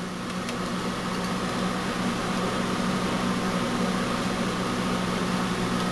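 Steady low hum with a fainter higher whine, unchanging throughout, like an electrical or small-machine drone.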